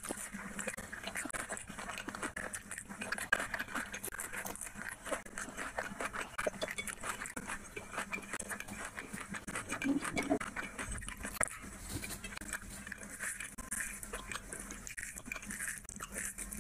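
Close-up eating sounds of a person eating rice and curry by hand: wet chewing and lip smacking, with bites of raw onion, over a faint steady hum.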